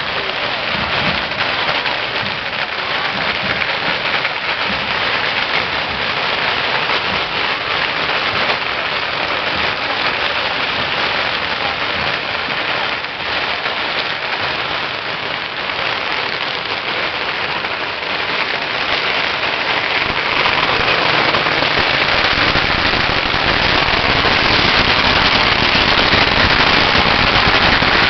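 Dense, continuous hissing and crackling of burning fireworks and firecrackers, growing louder about twenty seconds in.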